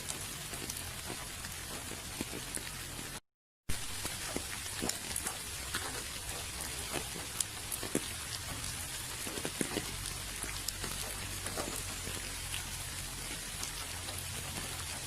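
Steady rain, a continuous hiss with many separate drops ticking on surfaces. The sound cuts out completely for about half a second some three seconds in.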